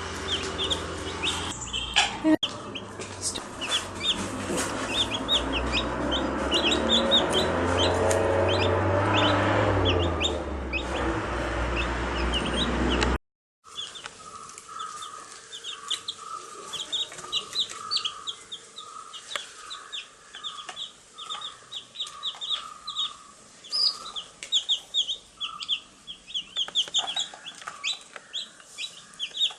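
A brood of baby chicks peeping, many short high chirps overlapping. For the first half they sit over a loud low rumble; after a sudden break about halfway, the peeping goes on over a run of lower, evenly repeated clucks.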